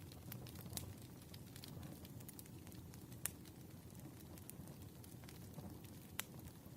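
Burning firewood crackling: a low steady rumble of the fire with scattered sharp pops, the loudest about three seconds in and another near the end.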